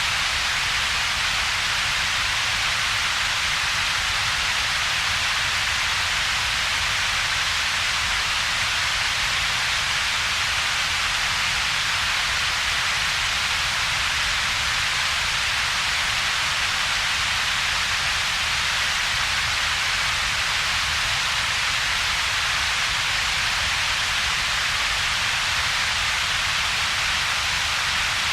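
Steady synthetic double-peaked noise: an even hiss strongest around the upper mids, with a weaker low rumble in the bass and a hollow gap between them. It does not change.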